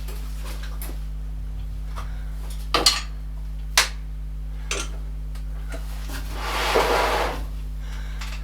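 Metal tools and machine parts being handled on a workbench: a few sharp clinks and knocks, then a longer scraping rub, over a steady electrical hum.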